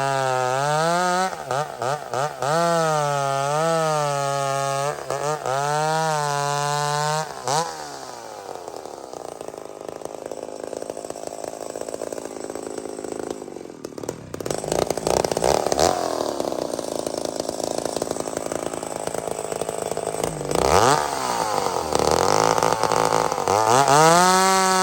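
Vintage McCulloch two-stroke chainsaw revving up and down, then dropping in pitch as it bogs down under load in a cut through a big tree for about twelve seconds, before climbing back to high revs near the end.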